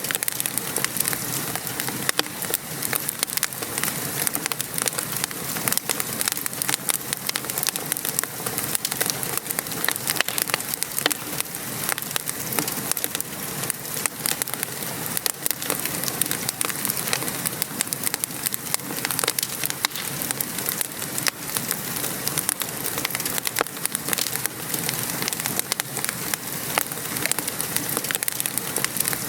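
Steady rain pattering on a surface mixed with a wood fire crackling, many small pops and snaps scattered through a constant hiss.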